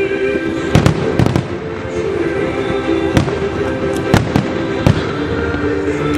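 Aerial firework shells bursting in a series of sharp booms: two close pairs about a second in, then single bangs around three, four and five seconds in, with music playing underneath.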